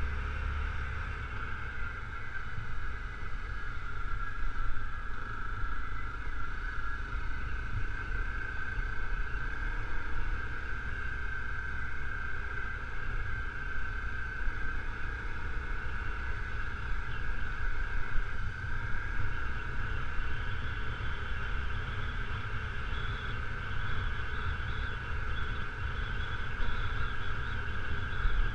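Honda CRF250L dual-sport motorcycle's single-cylinder four-stroke engine running at a steady cruise on a gravel road, with a constant low rumble underneath.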